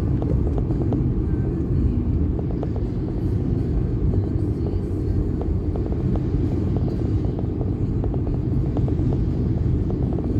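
Steady low rumble of vehicle and road noise on the move, with faint scattered clicks above it.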